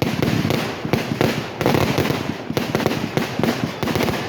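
Fireworks going off in a dense, rapid crackle of small bangs, many a second without a break.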